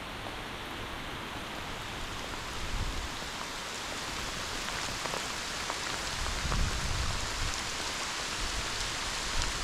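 Steady rain falling, an even hiss, with a few low rumbles in the second half.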